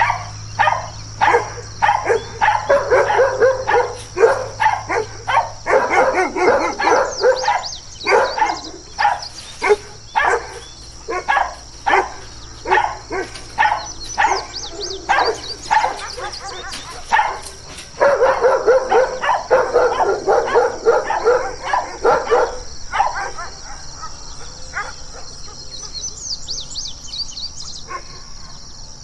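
Dogs barking over and over, about one to two barks a second, with bursts where several barks overlap; the barking thins out near the end. A steady high chirring of insects runs underneath.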